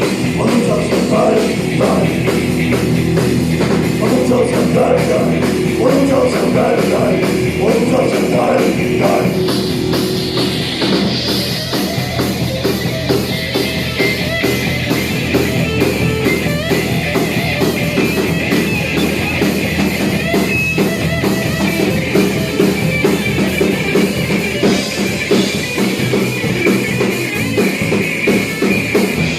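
Rock band playing an instrumental passage with electric guitar, bass and drum kit. A melodic line stands out over the first ten seconds or so, then the drums carry a steady driving beat.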